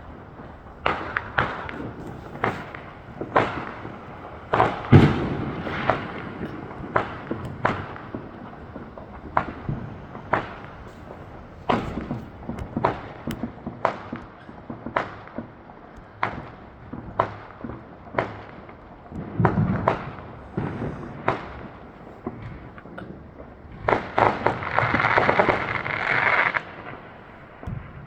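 Fireworks going off: a string of sharp bangs at irregular intervals, about one a second, with a longer rushing burst lasting a few seconds near the end.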